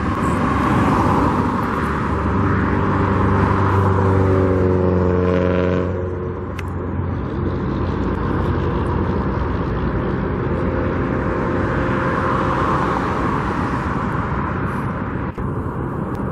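Road traffic passing close by: a steady rush of tyres and engines. One vehicle's engine drone swells to its loudest about four to six seconds in and drops in pitch as it goes past.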